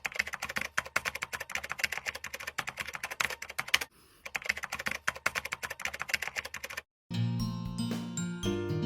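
Rapid computer-keyboard typing, many keystrokes a second, with a brief pause a little before halfway, stopping about seven seconds in. Plucked guitar music starts just after.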